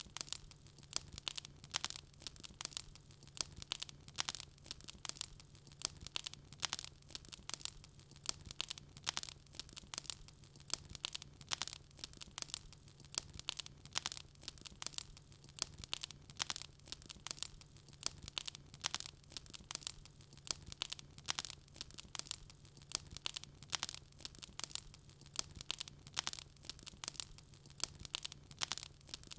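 Wood fire burning in a fireplace, crackling: a fast, uneven stream of small sharp pops and snaps.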